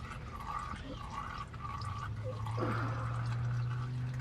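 Engine oil trickling and dripping out of the removed oil filter's mount into a drain pan. A steady low hum runs underneath and grows louder about two seconds in.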